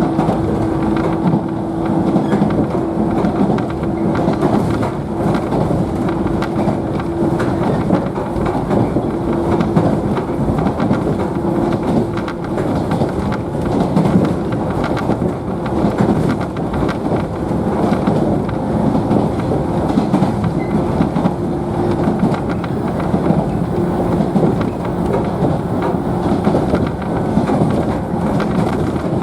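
Running noise heard aboard a JNR 113 series electric train's motor car at speed: a steady rumble of wheels on rail, with a hum from the traction motors and gearing that fades in and out.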